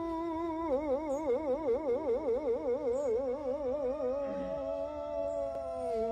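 A pet's long, drawn-out howl held as one note: steady at first, wobbling fast in pitch from about a second in, then slowly rising and holding.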